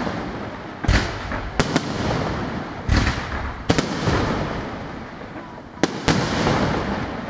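Aerial firework shells bursting overhead: about seven sharp bangs at uneven intervals, some in quick pairs, each followed by a long fading echo.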